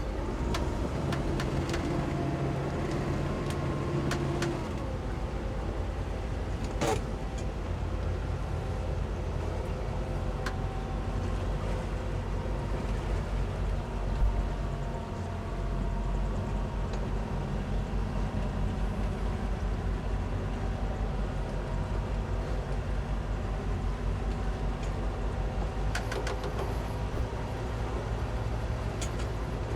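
Twin 200 hp Suzuki outboard motors on a towboat running steadily under tow, a continuous low drone with a few sharp knocks.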